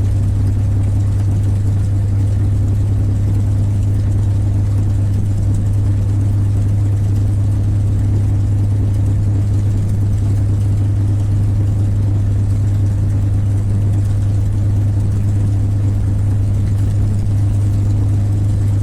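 North American P-51 Mustang's Merlin V-12 engine idling steadily, a constant low drone with no change in pitch.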